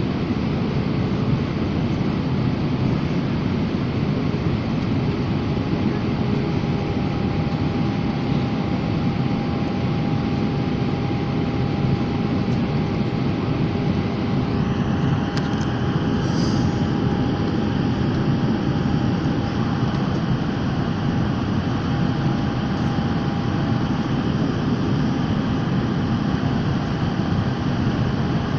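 Steady aircraft cabin noise in flight: the even rush of engines and airflow, with faint steady tones running through it. About halfway through, a higher hiss joins in.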